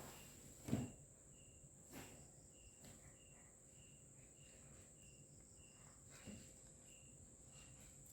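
Near silence with insects chirping steadily in short even chirps, about two a second, over a faint steady high whine; a few soft knocks.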